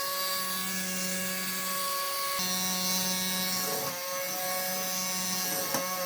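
Small electric motor spinning the propeller of a fan-propelled toy car, running as a steady whirring hum that wavers briefly twice, about four and six seconds in.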